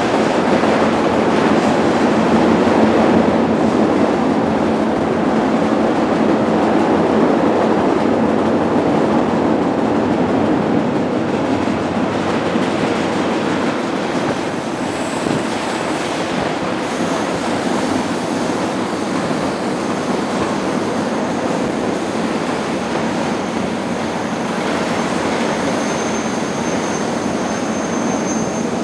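Freight train running, heard from inside an open boxcar: a steady loud rattling rumble of the car rolling on the rails. A thin high-pitched tone joins about halfway through and grows stronger near the end.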